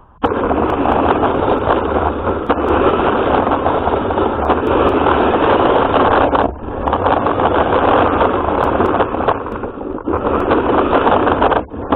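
A radio-controlled car running, heard through its onboard camera's microphone as a loud, rough noise. It starts suddenly, drops out briefly about halfway and again a little later, and cuts off just before the end.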